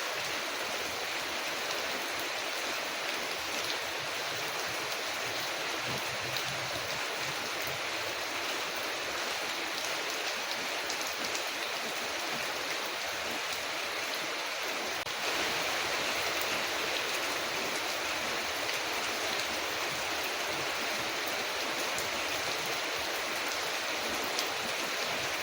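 Steady rain falling on a window: an even hiss that gets a little louder about halfway through, with faint scattered ticks.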